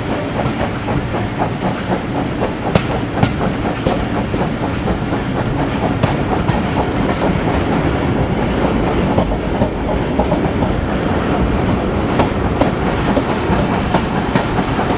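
Train on the move, its wheels clicking over the rail joints in a steady clickety-clack over a continuous rumble of running on the track.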